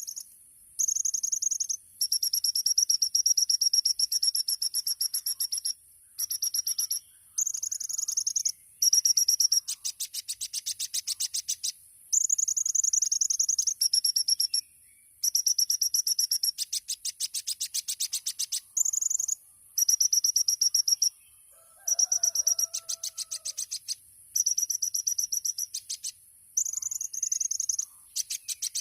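Kolibri ninja (a sunbird) singing very high-pitched song phrases of one to two seconds each with short pauses between, some held thin notes and others rapid trills: the 'tembakan' bursts used as a masteran to train other songbirds. About two-thirds of the way through, a brief lower pair of notes sounds.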